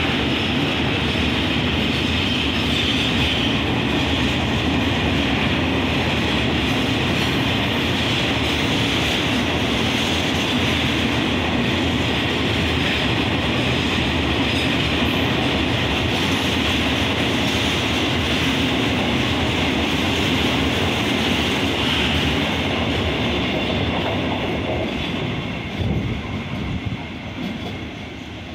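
A long freight train's container and tank wagons rolling past at speed: a steady rumble and clatter of steel wheels on the rails, fading as the last wagon draws away near the end.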